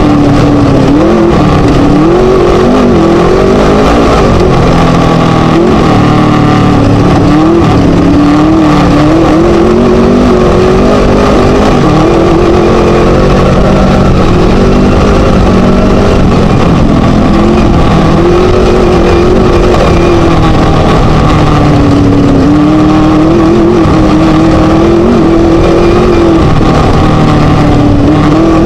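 The Scat V4 engine of a Chenowth DR2 class 1 desert race buggy runs hard and loud, its revs rising and falling continually under throttle.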